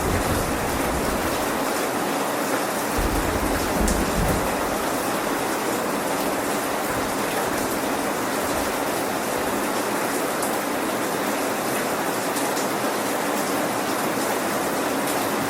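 Steady rain hissing. A low rumble dies away in the first second or so.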